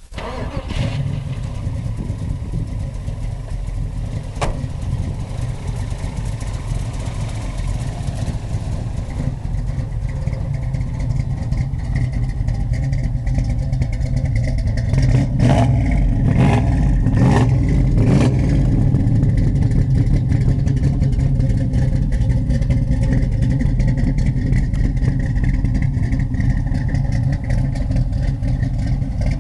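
1964 Chevy Nova's engine catching at the start and then running steadily at idle, a little louder from about halfway through.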